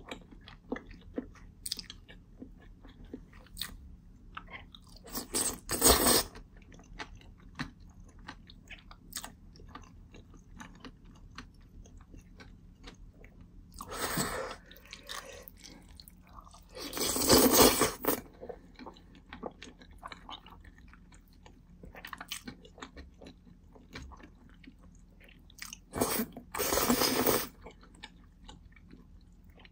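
Close-miked chewing of chewy jjolmyeon noodles and crunchy bean sprouts, with many small wet mouth clicks. A few louder slurps of noodles come about six, fourteen, seventeen and twenty-six seconds in, the one near seventeen seconds the loudest.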